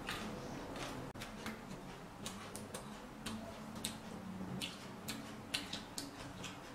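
Irregular crisp clicks and crackles, a few a second, from crunchy raw vegetables being chewed and snapped.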